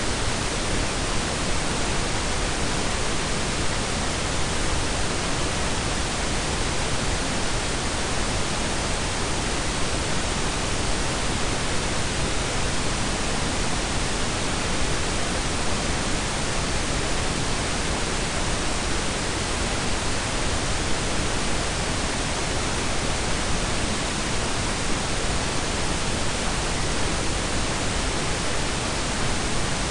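A steady blend of pink and brown noise, an even hiss with a deep rumble under it, that does not change.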